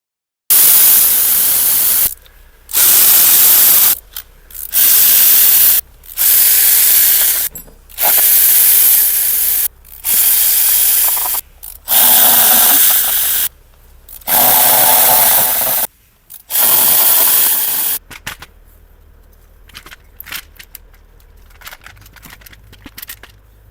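Repeated loud hissing sprays, about nine bursts of one to two seconds each with short pauses between, during work on the engine; near the end they give way to quieter clicks and handling noises.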